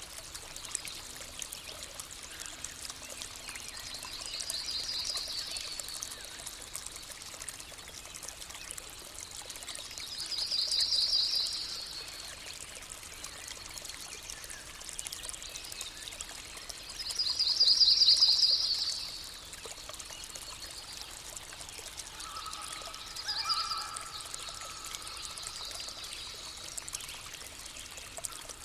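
Water trickling and pouring steadily, with a songbird singing a fast, high trill four times, about every six seconds, the third the loudest. A lower, steadier whistled note joins near the end.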